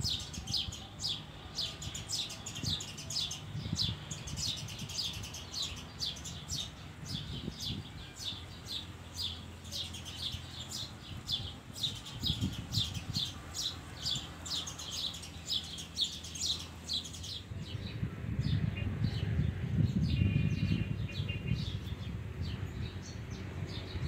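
A bird chirping over and over, short high chirps about three a second, stopping about two-thirds of the way through. Under it a steady low background, and near the end a louder low rumble.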